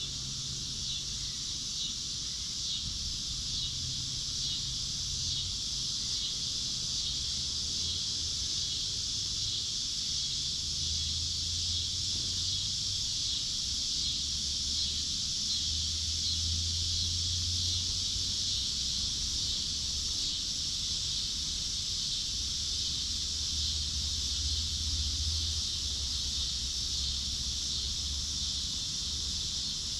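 A steady, high-pitched chorus of insects chirring without a break, with a low hum coming and going underneath.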